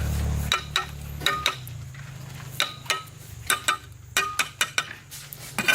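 Dishes and utensils clinking as they are handled: a dozen or so sharp, irregular clinks, each with a brief ringing tone. A low steady hum drops away about half a second in.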